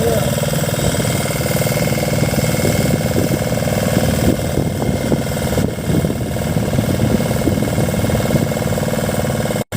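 An engine running steadily at idle, cut off for a moment near the end.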